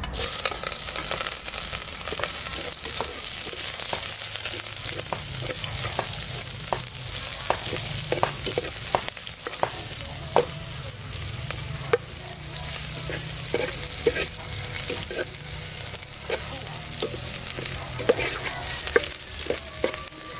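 Sliced onions sizzling in hot oil in a metal cooking pot over a wood fire; the sizzle starts suddenly as they are tipped in. A metal ladle clinks and scrapes against the pot many times as they are stirred.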